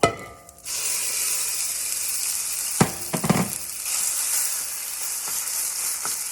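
Ground chicken sizzling in a hot pan. A ringing clank of metal cookware opens it, the sizzle starts about a second in and holds steady, and a couple of utensil knocks come midway.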